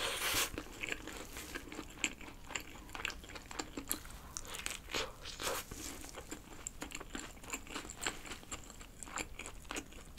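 Close-miked chewing of a mouthful of fried chicken burger, with many small, irregular crunches from the breaded chicken-breast patty and bun.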